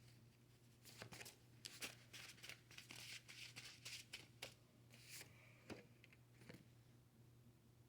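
Faint rustling and light clicks of tarot cards being handled, starting about a second in and stopping after about six and a half seconds, over a low steady hum.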